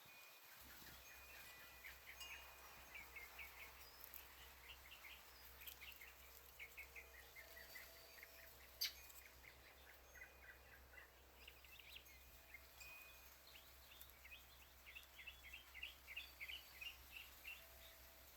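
Faint backyard birdsong: small birds giving series of short, rapid chirps in several bursts, over a low steady background hum. A single sharp click sounds about nine seconds in.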